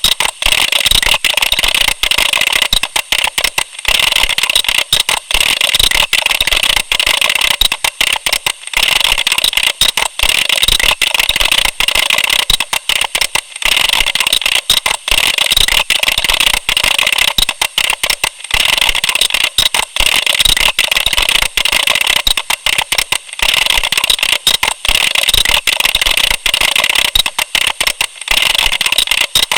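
Computer keyboard being typed on fast: a dense, continuous stream of key clicks, broken by short pauses about every five seconds.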